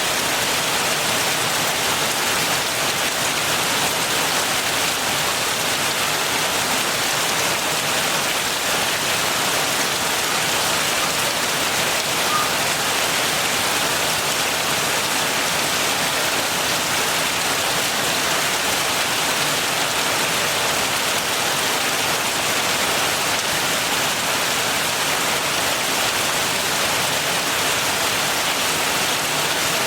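Heavy rain falling and pattering on surfaces as a steady, even hiss.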